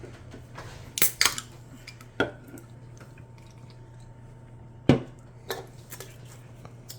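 A handful of short, sharp clinks and knocks, like dishes, a glass or utensils being handled and set down on a table, the loudest about five seconds in, over a steady low hum.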